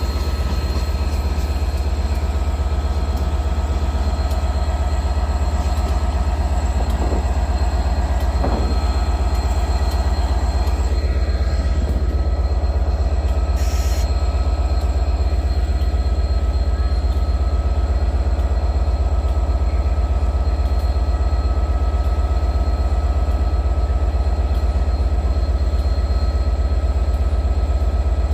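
A train running steadily at the station: a loud, unbroken low hum with faint steady whining tones above it.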